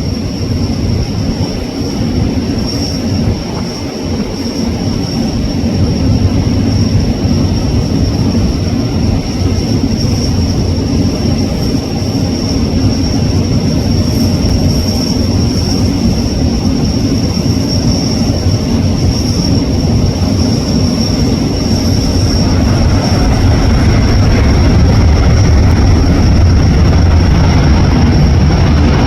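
Airbus A380's four jet engines on landing approach, a steady rumble that grows gradually louder.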